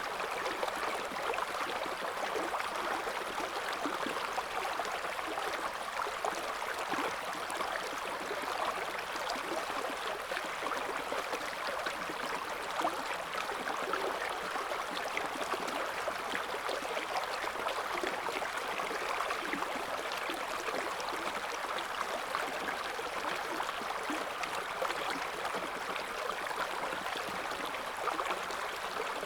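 A river's current flowing and burbling over stones, a steady rushing with fine splashy flecks.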